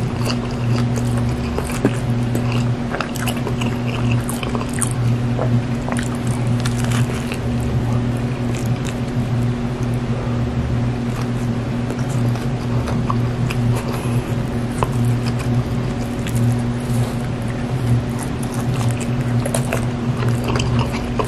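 Close-miked biting and chewing of a soft-bun fried chicken sandwich: squishing bread and many small wet mouth clicks, over a steady low hum.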